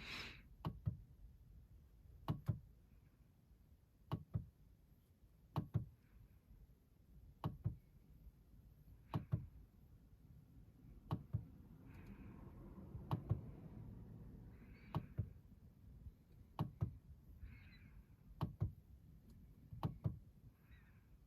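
Soft knocks, mostly in pairs, repeating at an even pace of about one every second and three quarters, with a softer rustle about halfway through.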